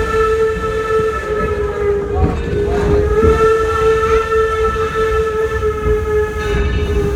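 Steam locomotive whistle, the 1873 Mason Bogie Torch Lake, blowing long, a steady chord that dips briefly about two and a half seconds in, over the low rumble of the moving train.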